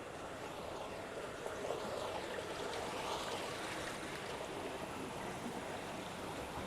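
Running water, a steady rushing hiss that grows louder around the middle and then eases slightly.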